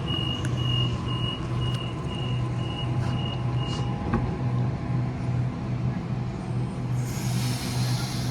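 A large vehicle idling with a steady, throbbing low hum. A high beep repeats about twice a second for the first four seconds, and a burst of air hiss starts near the end.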